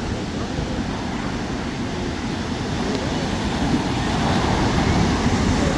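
Ocean surf breaking and washing up the beach, a steady rushing noise that swells louder about four seconds in as a wave comes in.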